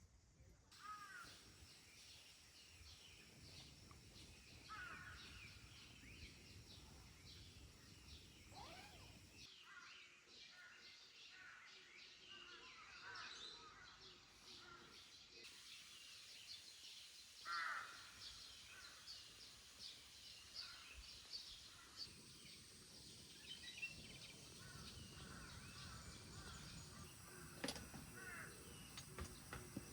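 Faint forest ambience of birds chirping and calling, with many quick high chirps and a few louder swooping calls, the loudest about two-thirds of the way through, over a low background rumble.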